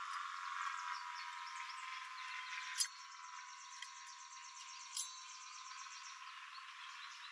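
Small wild birds chirping over a dense, steady background chorus, with a fast, even trill running for about three seconds midway. Two sharp clicks come just before and during the trill.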